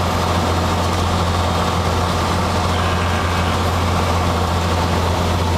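Cessna 182's piston engine and propeller droning steadily at an even, unchanging power.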